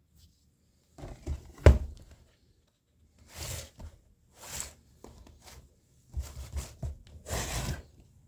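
Handling noises from a packaged toy car set: several short bursts of rustling and scraping, with one sharp knock a little under two seconds in.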